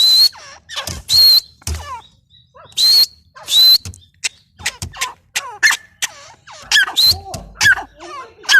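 Grey francolin calling: a run of loud, shrill, squeaky call notes. The first few notes carry a high ringing tone, and after a few seconds the calls become shorter, quicker and lower.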